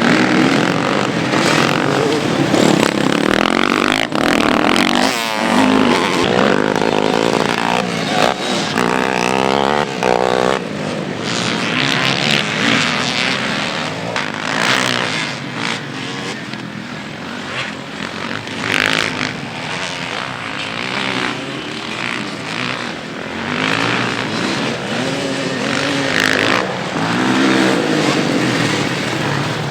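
Several motocross bikes racing, their engines revving up and down as they pass.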